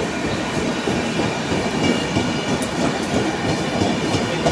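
A train running through the station, its wheels rumbling and clattering steadily on the rails.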